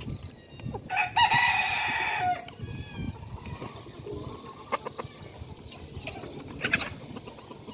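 Rooster crowing once, about a second in, with chickens clucking around it.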